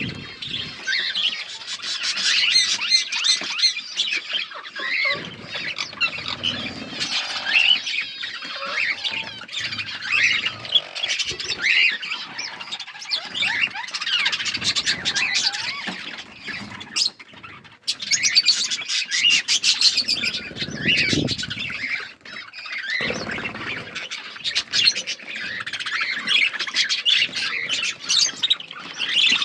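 A flock of budgerigars chattering and squawking, many short calls overlapping, with a brief lull a little past halfway.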